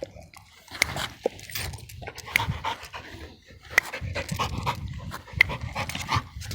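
A dog panting close by in quick repeated breaths, with a few soft clicks.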